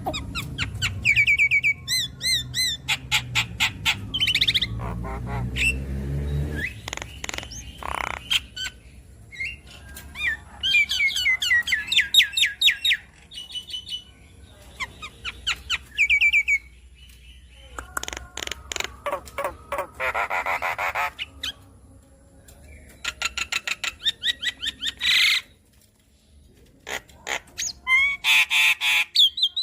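Javan myna singing a varied, chattering song: bursts of rapid repeated chirps, trills and sweeping whistles, broken by short pauses between phrases.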